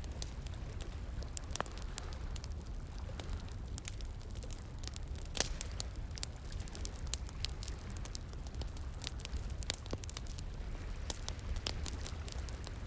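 Wood fire crackling, with frequent irregular snaps and pops, the sharpest about halfway through, over a steady low rush of flowing water.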